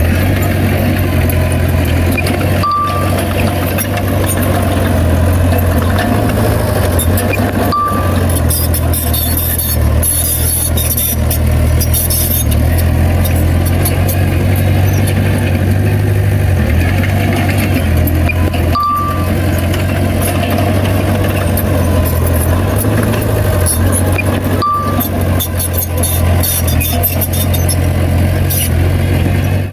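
Heavy earthmoving machine's diesel engine running steadily under load, with a deep low drone and rattling above it. Short high beeps break in four times.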